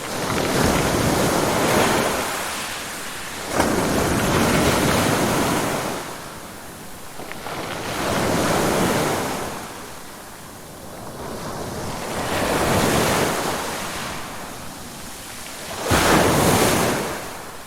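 Ocean surf: waves swelling and falling away about every three to four seconds. Two of them break with a sudden crash, one a few seconds in and one near the end.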